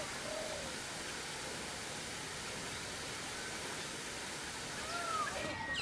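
Steady rushing noise of falling water, with a few faint bird calls; the rushing cuts off abruptly just before the end.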